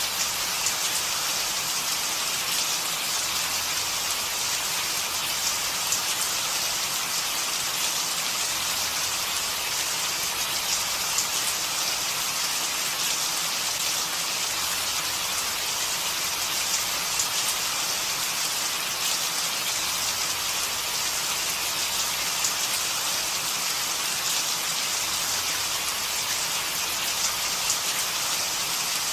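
Steady rain falling: an even, unbroken hiss with scattered sharper drop hits.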